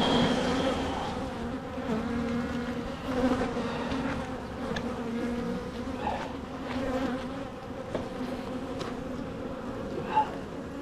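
Honeybees buzzing in a steady, massed hum around an opened hive, with a few faint clicks and a brief louder sound about ten seconds in.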